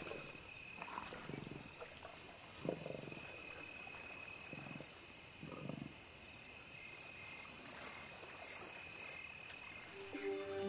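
Crickets and other night insects trilling steadily, with several short low growls from lions feeding on a buffalo kill during the first half.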